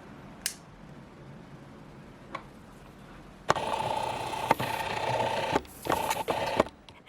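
Prusa i3 MK3S 3D printer running, at first quiet with a few sharp clicks. About three and a half seconds in, a louder mechanical whine with a steady tone and clicks starts from its motors, breaks off briefly, then stops shortly before the end.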